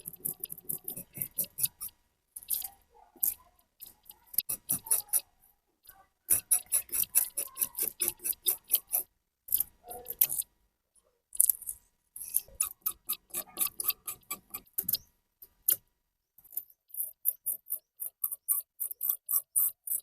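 Rapid scratchy strokes of a hand tool working over the rusty hammer, about five a second, in bursts of a second or a few seconds separated by short pauses.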